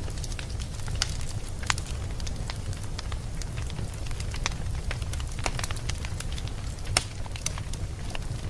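Fire burning in a fireplace: a steady low rumble with scattered sharp crackles and pops, the sharpest about seven seconds in.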